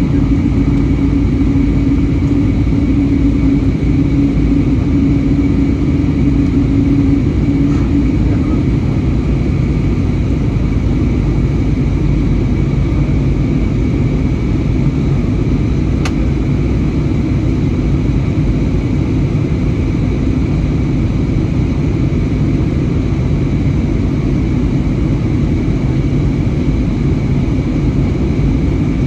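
Cabin noise inside an Airbus A320neo near the rear of the cabin: its CFM LEAP-1A jet engines running with a loud, steady rumble. A low hum over the rumble fades out about eight seconds in.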